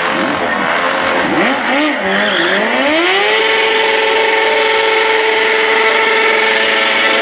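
A motorcycle engine revved up: its pitch wavers unevenly at first, then rises about two and a half seconds in and is held at high revs, steady, for several seconds.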